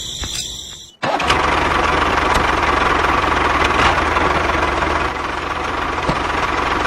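A small engine running steadily with a low rumble, cutting in sharply about a second in after a quieter stretch with a faint high whine.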